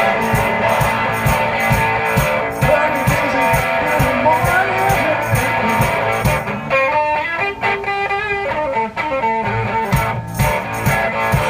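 One-man band playing an instrumental break: guitar over a steady percussion beat. The beat drops out for a few seconds in the middle, leaving the guitar alone, and comes back near the end.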